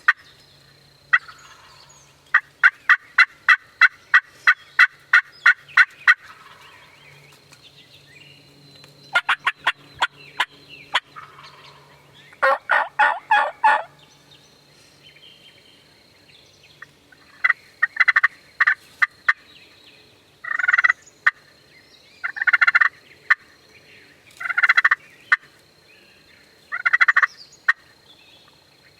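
Wild turkeys calling: a long run of evenly spaced yelps early on, then a series of gobbles, about one every two seconds, through the second half.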